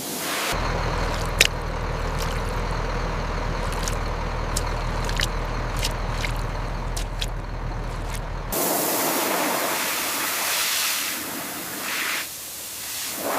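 A motor runs steadily with a low hum and a few sharp clicks over it. About eight seconds in it cuts to a loud, even hiss of water spraying.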